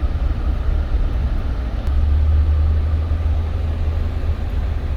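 Toyota Tundra pickup driving, heard from inside the cab: a steady low engine and road rumble with a light hiss of tyre noise, a little heavier from about two seconds in.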